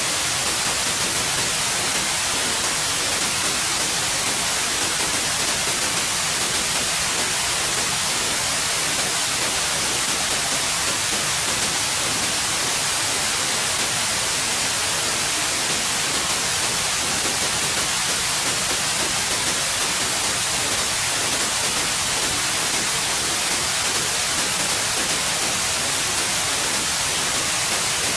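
Steady, continuous white noise: an even hiss with no changes.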